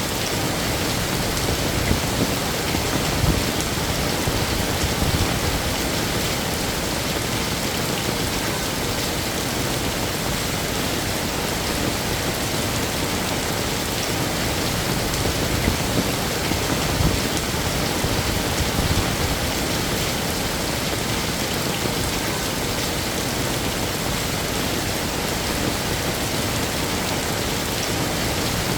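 Heavy rain falling steadily, a dense even hiss with occasional louder splashes of drops.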